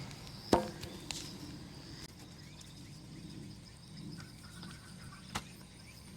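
Large wood bonfire burning with a low, steady rumble and two sharp pops of the wood, the louder one about half a second in and another near the end. A steady high insect trill runs behind it.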